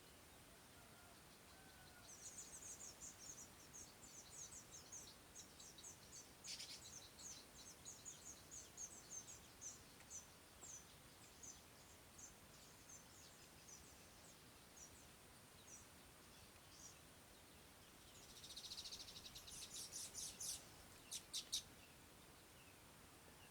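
Small bird chirping: a run of quick, high chirps that gradually slow and thin out, then a short buzzy trill and a few sharp notes near the end. The sound is faint.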